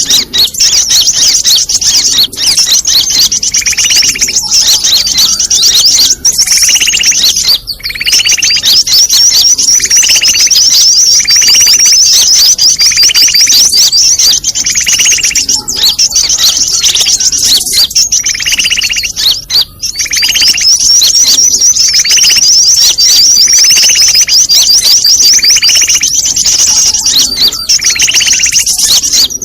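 Bird-luring call track ('suara pikat ribut'): a dense, loud chorus of many small birds twittering and chittering at a high pitch without pause, with a lower call repeating about every second and a half. It is a mixed lure recording meant to draw birds in.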